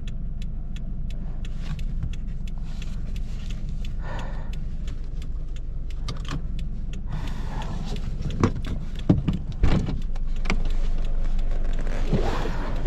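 Subaru BRZ heard from inside while driving on track: a steady low road and drivetrain rumble with rapid ticking and rattling. About eight and a half to ten seconds in come three heavy thumps, after which the noise is a little louder.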